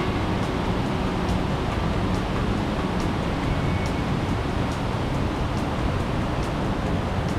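Steady rushing of flowing water from a forest stream, even in level throughout, with faint soft ticks about once a second.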